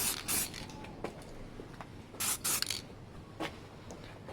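Aerosol spray-paint can hissing in several short bursts as a light coat of matte black paint goes onto a motorcycle's rear hugger.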